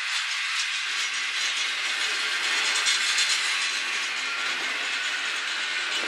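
Double-stack intermodal well cars rolling past: a steady hiss of steel wheels on the rails.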